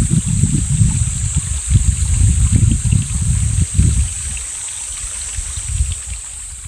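Mountain valley stream running, with wind buffeting the microphone as an uneven low rumble that eases about four seconds in. A steady high hiss sits above it, with faint bird chirps.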